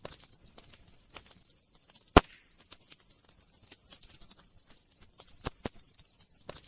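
Campfire crackling: irregular sharp snaps and pops of burning wood over a faint hiss, with one loud pop about two seconds in and two more strong snaps a little after five seconds.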